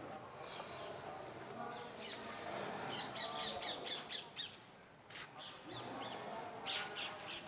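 Birds calling, with a quick run of repeated high calls about three seconds in.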